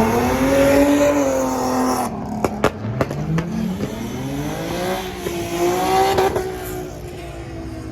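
A car engine revving hard as it accelerates, its pitch climbing and then dropping twice, with a few sharp cracks in between.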